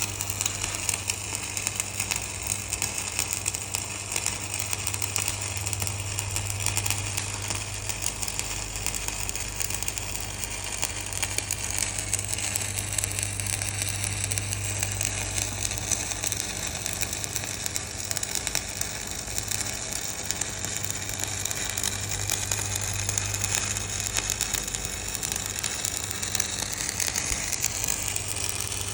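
Electric arc welding: the arc crackles and sizzles steadily with a dense run of small pops, over a steady low hum.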